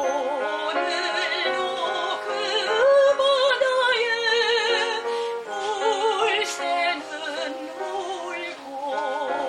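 Soprano singing a Korean art song in classical style with wide vibrato, accompanied by piano; the voice climbs to louder high notes about three seconds in, then settles lower.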